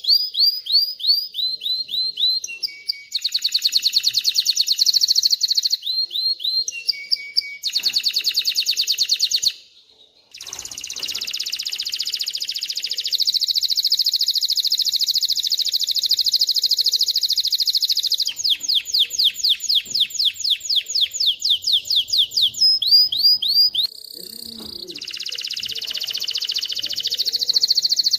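Male canary singing loudly: a long song made of phrases of rapidly repeated sweeping notes and fast trills, with a brief break about ten seconds in followed by a long unbroken roll.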